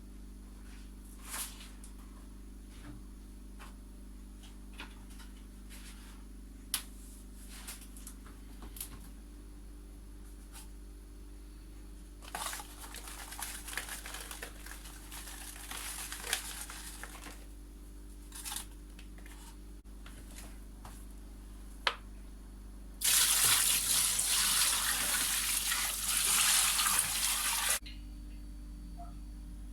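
Water running from a tap in two spells, the second longer and louder and cutting off suddenly, amid scattered small clicks and knocks of handling.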